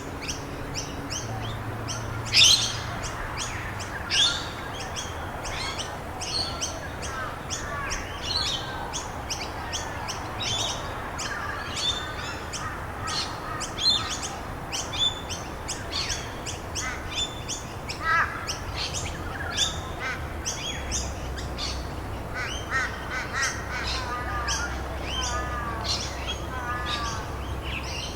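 Several birds chirping and calling over one another, with many quick down-sweeping chirps and a few louder calls in the first few seconds, over a steady hiss of rain.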